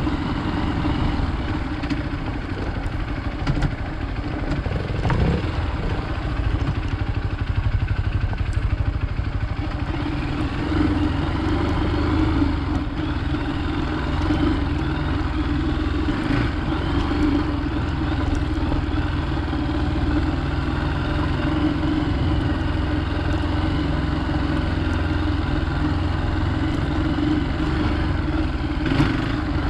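Hero Xpulse 200 motorcycle's single-cylinder engine running steadily while riding off road.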